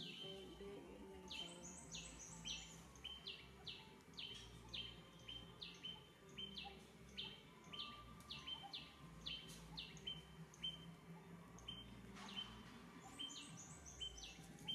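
Birds chirping: faint, short rising chirps in quick runs of about four a second, over a low background hum.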